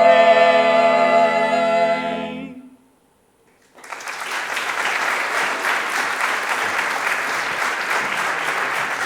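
A vocal ensemble holds the final chord of an a cappella song and releases it, fading out about two and a half seconds in. After a second of silence the audience bursts into steady applause.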